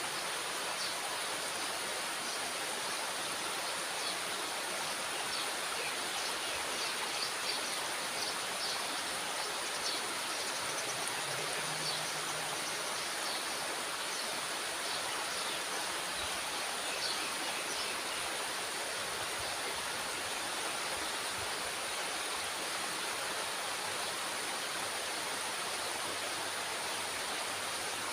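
Water pouring steadily through a dam's floodgate: a constant rush with faint splashing.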